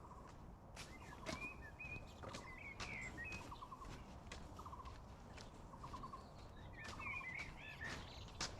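Birds calling: a short rattling call repeated about every second, with higher warbling chirps twice, over scattered sharp clicks.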